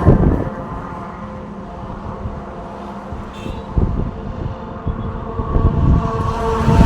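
Road traffic: motor vehicles passing with engines running. It is loudest right at the start, quieter through the middle, and builds again near the end as another vehicle approaches.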